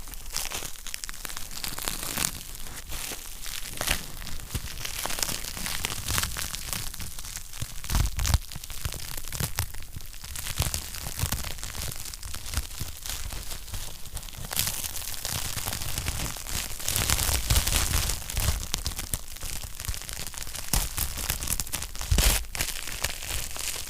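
Wood fire crackling in a fireplace: a dense, irregular crackle with occasional louder pops.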